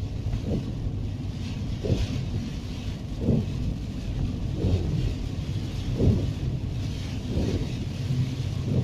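Car driving on a wet road, heard from inside the cabin: a steady low rumble of engine and tyres, with a thump and swish recurring about every second and a half.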